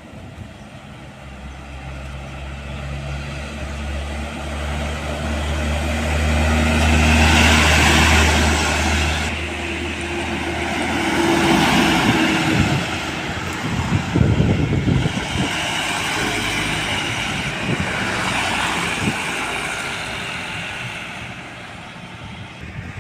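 Heavy road vehicles, trucks or buses, passing one after another. The first has a steady low engine drone that builds to its loudest a third of the way in and then fades, and several more vehicles rush past in the second half.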